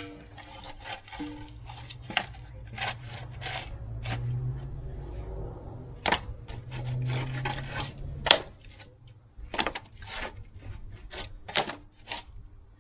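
A string of irregular sharp knocks and clinks of hard objects, over a low rumble.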